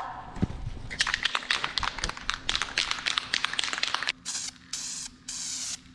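Aerosol spray-paint can shaken hard, its mixing ball rattling rapidly for about three seconds, then sprayed in short hissing bursts, about three of them.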